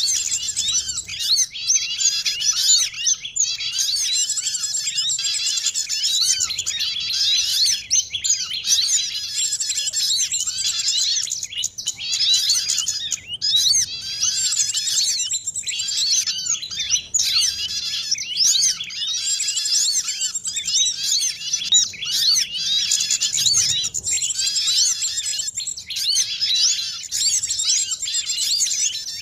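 A dense chorus of many small songbirds chirping and twittering at once, with rapid, overlapping high calls and trills that never pause. It is a mixed bird-luring recording, made to draw small birds such as sunbirds, white-eyes and prinias.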